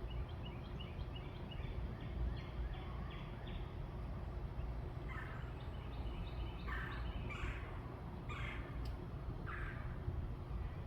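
Birds calling outdoors: a quick series of small chirps, then about five louder, harsher calls spaced roughly a second apart in the second half, over a steady low rumble.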